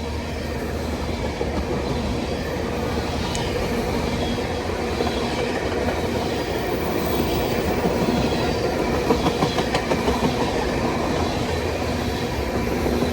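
Freight train cars rolling past with a steady rumble and the clicking of wheels over the rails, getting louder toward the end.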